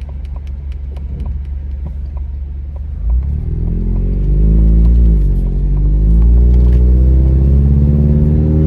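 Car driving, heard from inside the cabin: a steady low road rumble with a light regular ticking at first. About three seconds in, the engine pulls away and rises in pitch, drops briefly as it shifts gear, then rises again.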